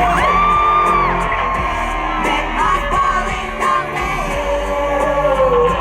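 Live pop-rock song played loud over a sound system: a steady heavy bass under held and gliding vocal notes, with yells and no sung words.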